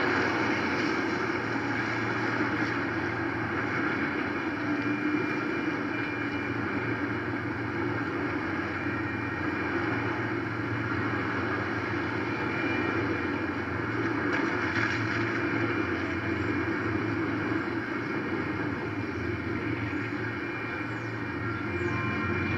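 Freight train cars rolling steadily past over a street grade crossing, a continuous even noise of the passing train.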